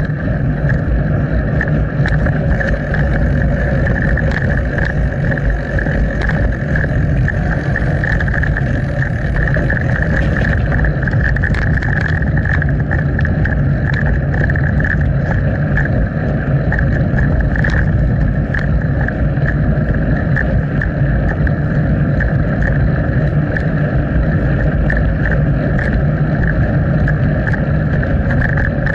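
Steady wind and rolling noise of a bicycle ride picked up by an action camera's microphone, with small rattles and clicks throughout.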